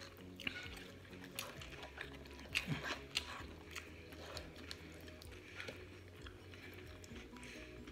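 Close-up mouth sounds of chewing cheesy beef nachos, with scattered small wet clicks and crunches, a cluster of them about two and a half seconds in, over faint background music.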